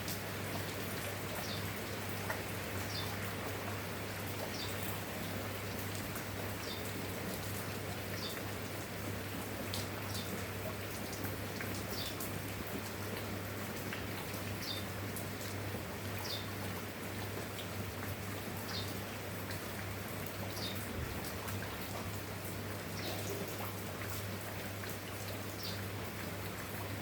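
Steady rain falling, an even hiss over a low, steady hum. Short high chirps repeat every second or two throughout.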